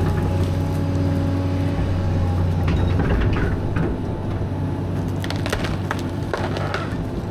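Caterpillar 315B excavator's diesel engine running steadily while wood cracks and splinters again and again as trees and brush are broken down.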